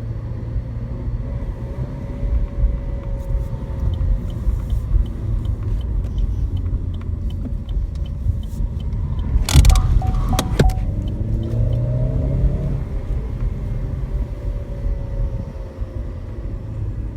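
Cabin sound of a 2017 Chevy Sonic RS's 1.4-litre turbo four running while driving. A turn signal ticks steadily for several seconds. A couple of loud knocks come about ten seconds in, then the engine revs up as the car accelerates.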